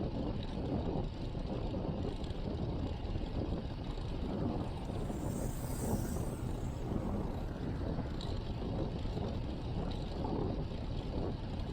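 Wind buffeting the microphone of a chest-mounted action camera on a moving bicycle, a steady low rumble with road and tyre noise. A brief hiss swells and fades about halfway through.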